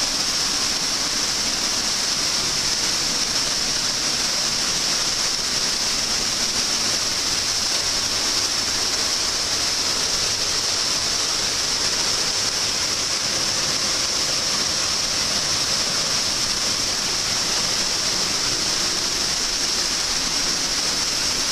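Kaminari Falls, a 30 m waterfall, rushing steadily: an even, unbroken noise of falling water.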